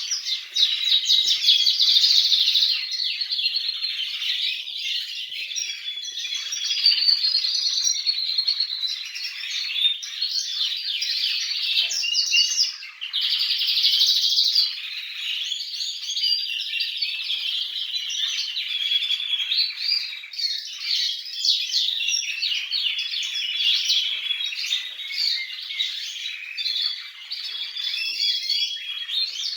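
Spanish canaries chirping and singing without pause, in rapid high trills and chirps, with a brief lull about thirteen seconds in.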